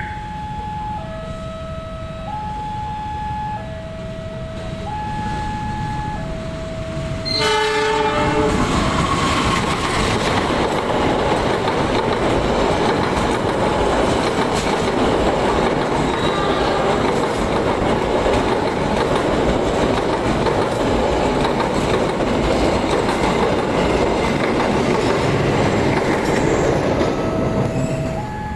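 An electronic warning alarm sounds as alternating two-tone beeps, one change about every second. About seven seconds in, a train's horn gives a short blast and the train passes close by at speed, its wheels clattering over the rail joints for about twenty seconds. Near the end the train clears and the alarm beeps come through again.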